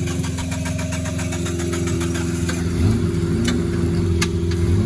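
Off-road 4x4's engine running steadily at low revs, with a rapid, even ticking for the first couple of seconds.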